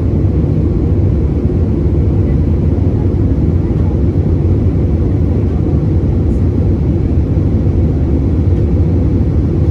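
Cabin noise of an Airbus A320 in flight after takeoff: the steady, low-pitched hum of the jet engines and rushing air, unchanging throughout.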